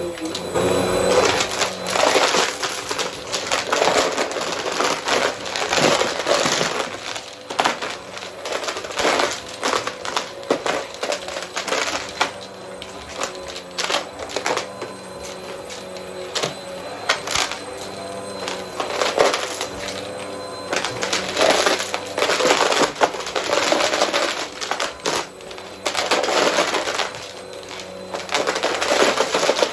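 Vacuum cleaner running steadily while sucking up loose coins, which rattle and clatter through the nozzle and hose in repeated bursts.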